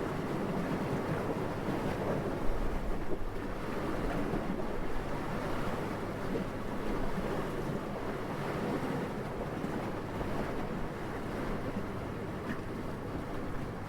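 Steady wind rushing without pause, a soft low-pitched noise that swells and eases only slightly, with a couple of brief louder buffets about two and a half seconds in.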